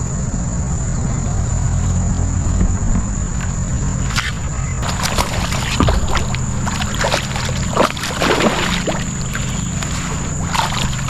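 A largemouth bass being fought on a paddle board: scattered splashes and knocks over a steady low outdoor rumble, with a thin high whine running throughout.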